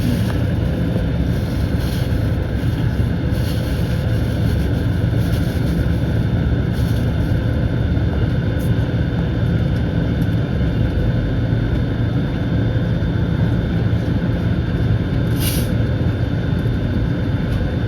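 Steady airliner cabin noise before departure: a constant rushing hum from the aircraft's air and onboard systems, with a faint high whine running through it. There is one brief high tick about fifteen seconds in.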